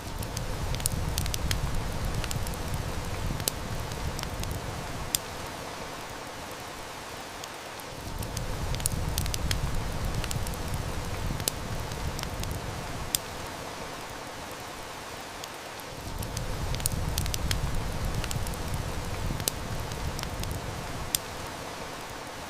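Steady heavy rain hissing, with a wood fire crackling and snapping in sharp scattered pops. A low rumble swells in and fades out three times, about every eight seconds.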